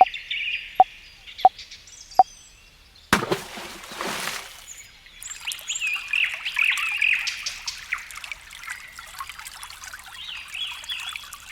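Water drops plopping into a small pool, about one every three-quarters of a second, then a short gush of pouring water about three seconds in and a light trickle after it. Birds chirp throughout.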